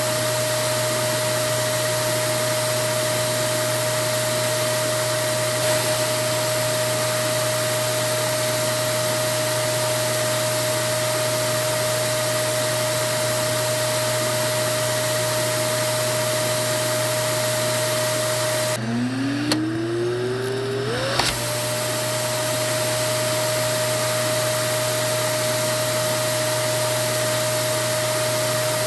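Vacuum cleaner motor running with a steady rushing noise and a high whine. About nineteen seconds in, the noise briefly cuts out and the motor's pitch climbs back up over a couple of seconds as it spins up again, then the steady running resumes.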